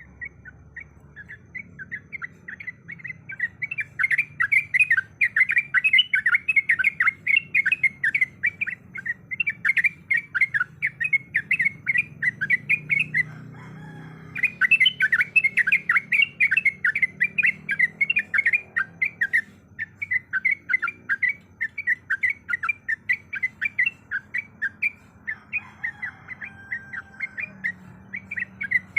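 Yellow-vented bulbul (trucukan) singing a long, rapid rolling song of quick bubbly chattering notes. The song breaks off briefly about halfway through, then resumes.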